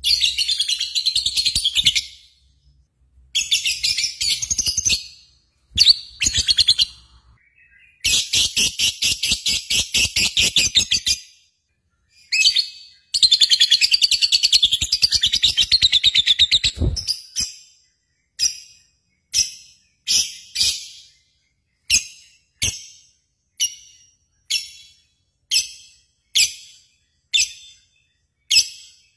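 High-pitched bird chirping: several runs of fast trills lasting a few seconds each, then single short chirps repeated a little more than once a second.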